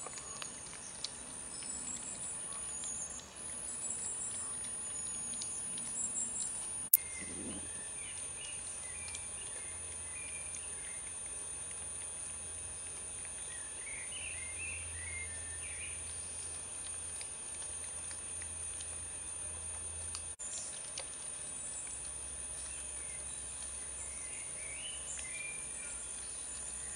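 Woodland ambience: small birds chirping now and then over a steady high-pitched whine, with a sharp click about seven seconds in.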